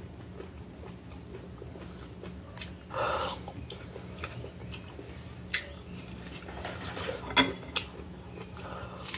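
Close-up wet chewing and mouth sounds of a person eating soft chunks of melon. There is a short louder burst about three seconds in and a sharp click a couple of seconds before the end, over a steady low hum.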